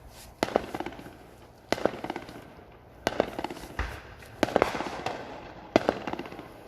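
Fireworks going off: five sharp bangs about a second and a half apart, each followed by a short rattle of crackling.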